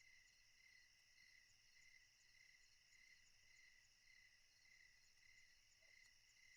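Near silence with faint crickets chirping steadily, a pulsing chirr about twice a second.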